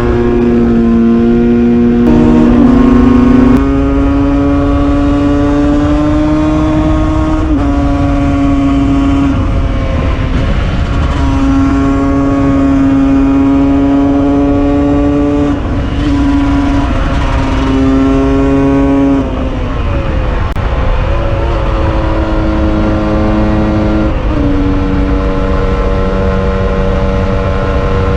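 Husqvarna SM 125 supermoto engine with a Scalvini aftermarket exhaust, pulling hard under load on a climb. The pitch holds steady for stretches and steps between gears several times, dropping away briefly about two-thirds of the way through before pulling again.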